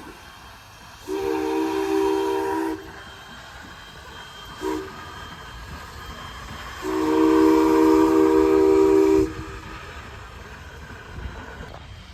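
Locomotive chime whistle sounding three blasts of one multi-note chord: long, short, then a longer, louder one. A low rumble of the train runs underneath.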